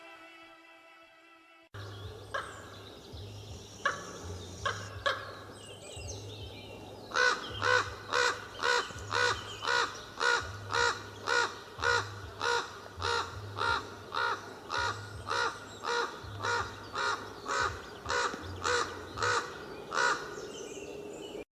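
A bird calling outdoors: a few scattered calls at first, then from about seven seconds in a long run of evenly spaced, identical calls, about one and a half a second, over a faint low hum.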